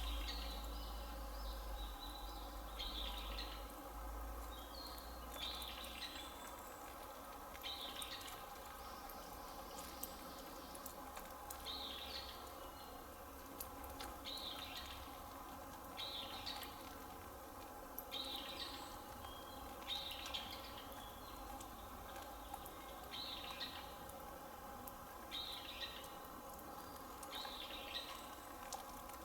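A bird calling repeatedly outdoors: short, high calls about every one to two seconds over faint steady background noise.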